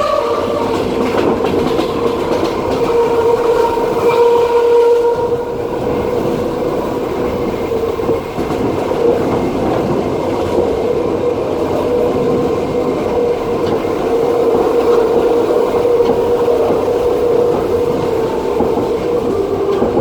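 Passenger train running at speed, heard from inside the carriage: a steady rumble of wheels on the rails with a continuous humming tone over it.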